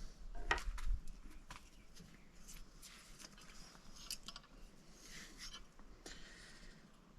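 Scattered light clicks and ticks of small metal parts and hand tools being handled, about a dozen over several seconds.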